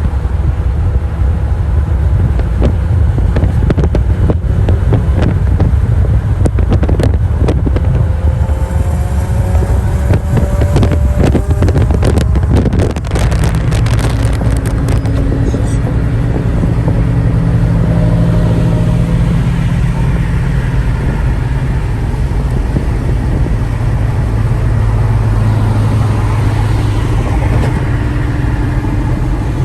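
Car engines running loudly, with wind buffeting the microphone through the first half. An engine note climbs in pitch about ten seconds in, and a steadier engine drone holds through the second half.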